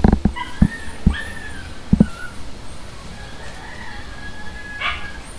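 A few dull, heavy thuds in the first two seconds, then a dog whining and yipping in thin, high, wavering calls.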